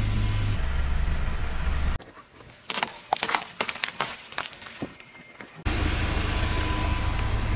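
Steady low rumble of a car rolling. About two seconds in it cuts to a few seconds of scattered sharp cracks and crunches from things being crushed under the tyre, then the low rumble returns.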